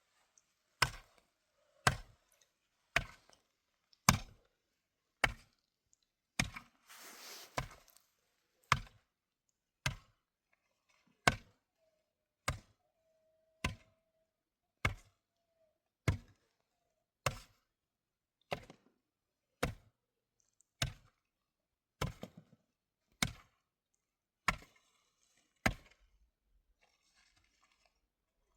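Wood being chopped: a steady run of about two dozen sharp strikes, roughly one a second, that stops a few seconds before the end.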